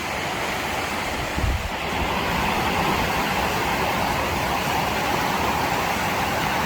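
The Sheep River rushing steadily over its rocky bed.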